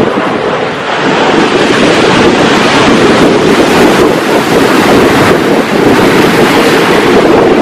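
Sea surf and wind, with the wind buffeting the microphone: a loud, continuous rush that eases slightly about a second in and then swells back up.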